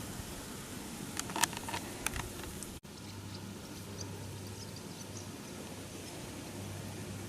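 A quick run of sharp clicks and taps, most likely from a porcupine, over steady background hiss and a low hum. The sound drops out for a split second just after the clicks, and a few faint high ticks follow.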